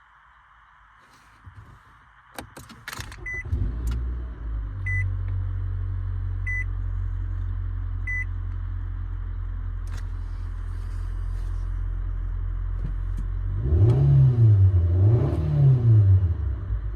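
2014 Nissan Altima's engine starting about three seconds in after a few clicks, then idling steadily while a dashboard warning chime beeps four times. Near the end the engine is revved twice, rising and falling in pitch each time.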